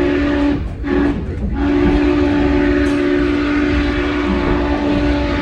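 Steam whistle of Norfolk and Western 611 sounding from the train: a chord blast that breaks off briefly twice about a second in, leaving a short blast between two longer ones, over the steady rumble of the train rolling on the rails.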